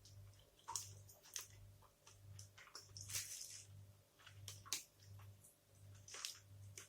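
A person chewing a protein bar close to the microphone: soft, wet mouth clicks and squishes, with a faint low pulsing underneath about twice a second.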